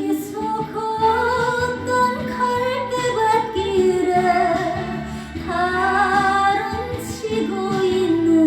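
A woman singing a slow Korean ballad over instrumental accompaniment, holding long notes with vibrato in three phrases, the last starting about five and a half seconds in.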